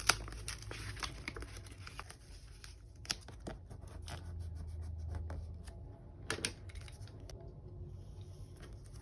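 Paper stickers and ephemera being handled and peeled: soft rustling with scattered light taps and clicks, a few sharper ones near the start, about three seconds in and about six seconds in.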